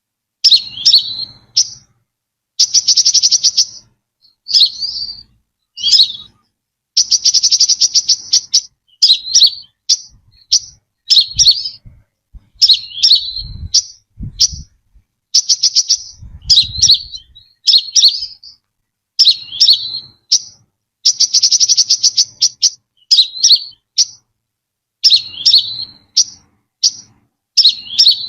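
Brown-throated sunbird singing: a run of short, sharp high chirps, broken several times by rapid buzzy trills lasting about a second.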